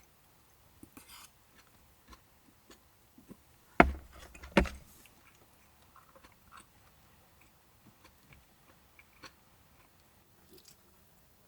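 Small handling noises: scattered light clicks and taps, with two sharp knocks about a second apart around four seconds in.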